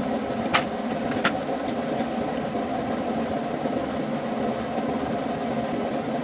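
An engine running steadily, with two sharp clicks in the first second and a half.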